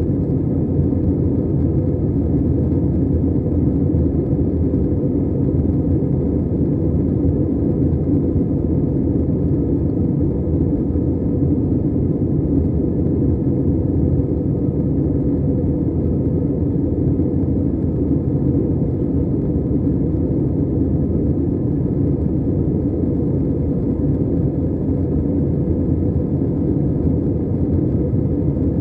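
Steady low rumble of an Airbus A320 airliner's engines and airflow, heard from inside the cabin, holding even throughout.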